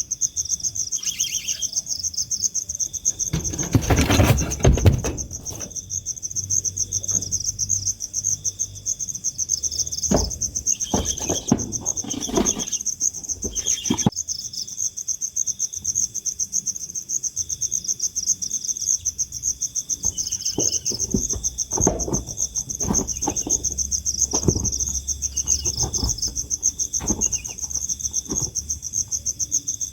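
Insects, crickets by the sound of it, chirring in a steady, rapid, high pulsing trill. It is broken by short rough noisy bursts, the loudest about four seconds in and more in clusters later.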